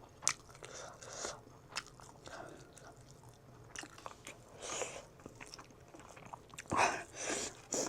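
A person chewing and biting food close to the microphone, with irregular soft crunches and mouth sounds, the loudest crunches near the end.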